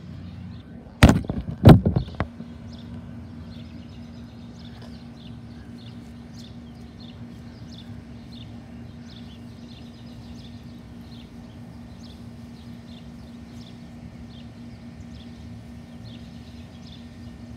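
A few loud knocks and bumps about a second in as the phone is handled and set down. After that, birds chirping repeatedly over a steady low hum.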